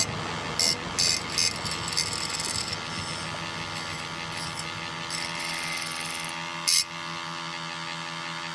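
A small motor or engine running steadily with a pitched hum, with a few sharp mechanical clicks now and then.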